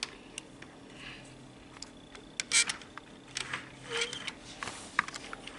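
HO scale model train running slowly on its track: scattered, irregular clicks and ticks of wheels and couplers over the rails, over a faint steady hum.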